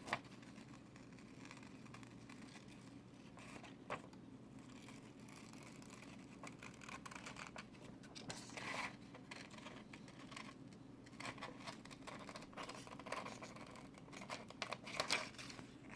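Scissors snipping through paper while cutting out a small paper circle. Faint, in scattered runs of snips with pauses between, and a sharper click about four seconds in.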